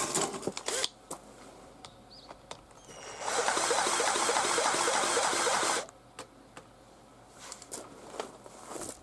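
A small engine's starter spinning it over for about two and a half seconds, a dense steady whirr, then stopping without the engine catching, as with an engine that has spark but will not start. Clicks and handling noises before and after.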